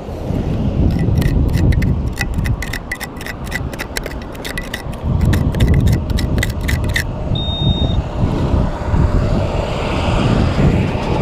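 A digging tool scraping and clicking rapidly into gravelly dirt while a metal detector target is dug out, then a metal detector gives one short high beep. A steady low rumble, traffic or wind, runs under it all.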